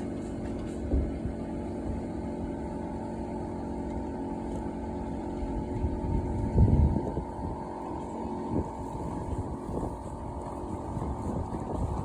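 A steady mechanical hum made of several fixed tones, with scattered knocks and one louder thump about six and a half seconds in.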